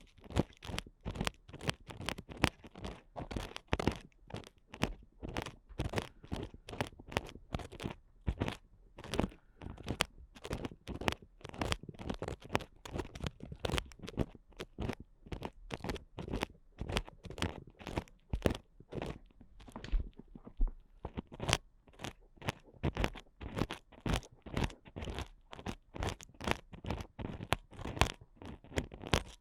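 Ear picks scratching and scraping inside the ear of an ASMR microphone: rapid crunchy strokes, about three or four a second, close and strong.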